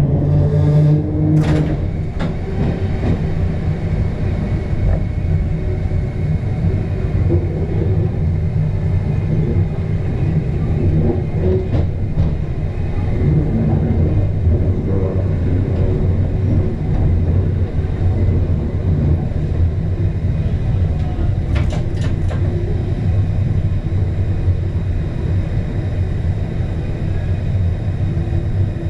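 Sydney Trains red set electric train running, heard from inside the driver's cab: a steady deep rumble, with a few sharp clicks near the start, about halfway through and twice in quick succession later on.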